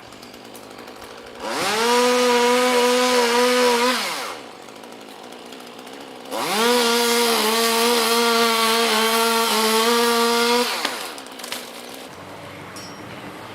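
Chainsaw revved to full throttle twice, the second time for longer. Each time the engine note rises quickly, holds steady at high revs and drops away when the throttle is released.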